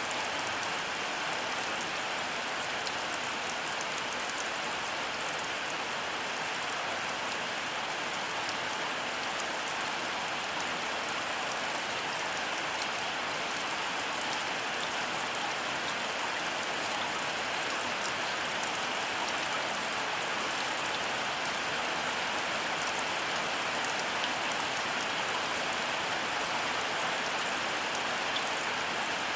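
Heavy rain falling steadily: an even hiss of drops that holds the same level throughout, with no thunder.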